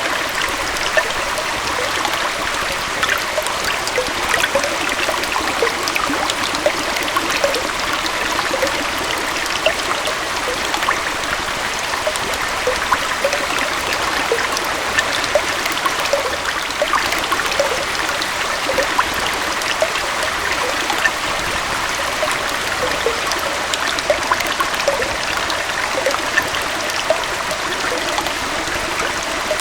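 Small waterfall and stream flowing steadily: continuous splashing rush with small gurgles and plops bubbling through it.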